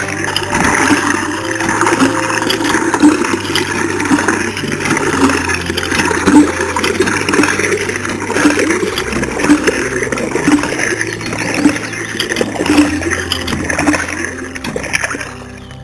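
Water gushing and splashing from a small homemade water pump, a steady watery rush.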